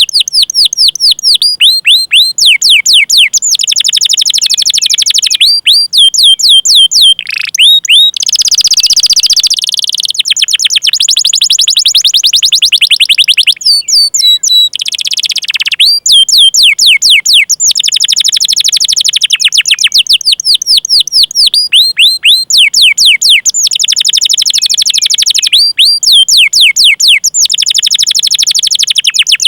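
Canary singing long rolling trills, each phrase a fast run of repeated high chirps that sweep downward, one phrase after another with short breaks. About eight seconds in, a harsher, noisier stretch lasts a second or so.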